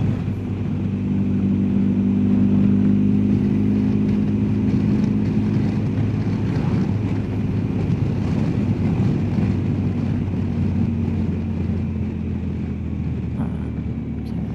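BMW R1250GSA's boxer-twin engine running at a steady cruise while riding, with wind and road rush over it.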